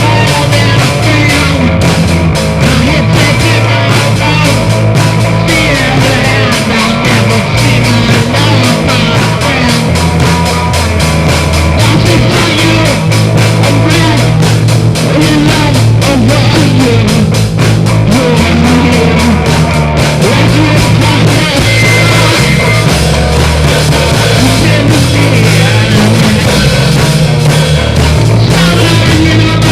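Rock music with distorted electric guitars, bass and drums at a steady loud level: an instrumental passage of a song.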